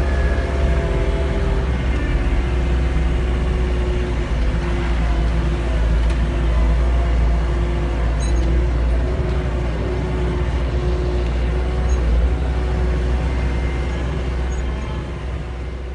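A wheel loader's diesel engine running steadily, heard from inside the cab: a deep drone with a wavering hum above it.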